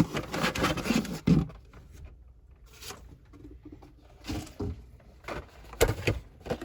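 Blister-packed die-cast toy cars and their cardboard case being handled: plastic and card rustling at first, then a few scattered knocks as packages are picked up and set down.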